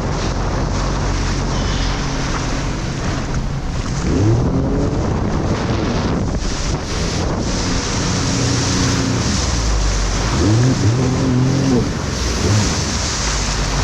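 Jet ski engine running under heavy wind noise on the microphone, with water rushing; the engine note rises and falls twice, about four seconds in and again about ten seconds in.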